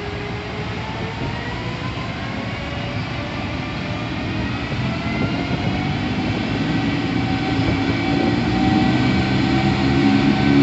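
Electric train's traction motors whining in several tones that glide steadily upward in pitch over the rumble of wheels on rail, growing louder toward the end: the rising whine of an accelerating electric train.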